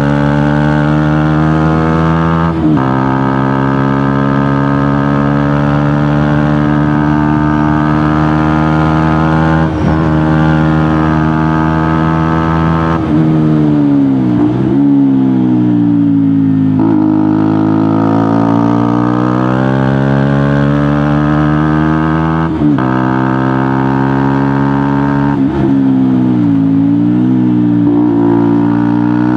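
KTM Duke motorcycle with a GPR aftermarket exhaust riding under way: a loud, steady engine and exhaust note, broken by several short gaps at gear changes. About halfway through the pitch drops as it slows, then climbs again as it picks up speed, with another dip and recovery near the end.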